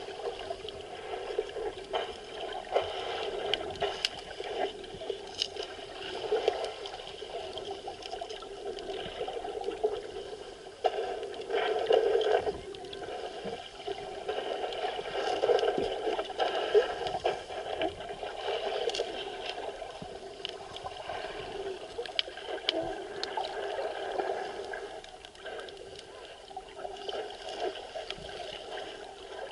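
Muffled sea water heard underwater through the camera, a steady murky wash with scattered small clicks and crackles, swelling now and then.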